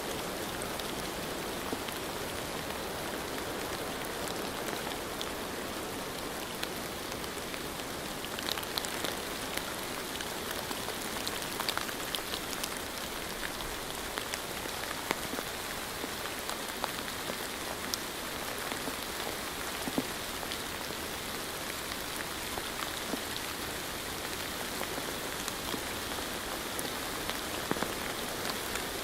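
Steady rain: a constant hiss with scattered single drops ticking through it, more of them around the middle.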